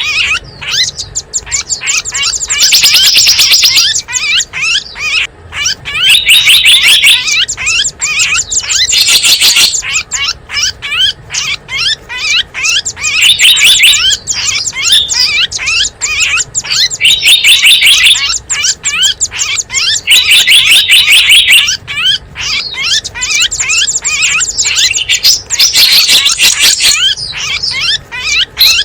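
Bird-lure recording of small wild songbirds chirping: dense, rapid high chirps, broken every three to four seconds by a louder trill lasting a second or two.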